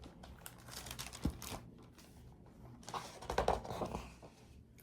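Faint rustling and crinkling of paper with a few soft clicks, as a picture book's page is handled and turned.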